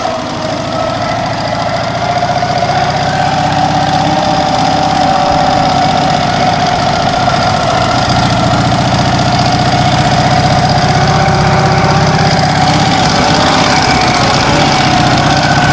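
Old sidecar motorcycle's engine running steadily, growing a little louder over the first couple of seconds and then holding even.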